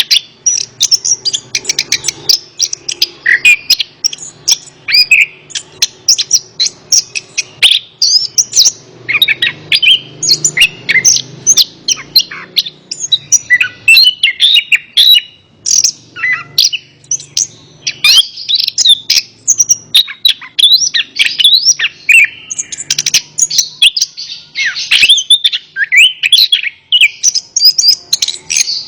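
Orange-headed thrush (anis kembang) singing a long, rapid, varied song of quick whistled and chattering phrases with only brief pauses.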